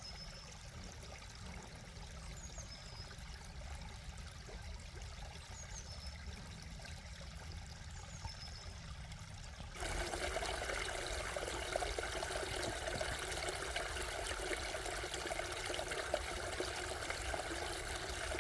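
Running water trickling and pouring, coming in suddenly about ten seconds in as a steady rush. Before it, a quiet stretch with a few short, high bird chirps.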